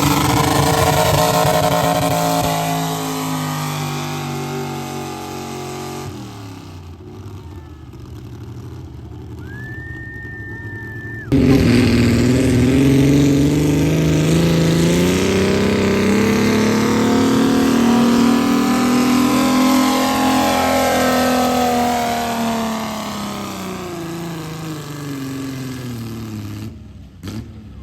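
Pulling tractor engines working hard under load on the track. The engine pitch sags over the first few seconds. After an abrupt cut, another loud run starts, with the engine climbing in pitch and then falling away before fading out.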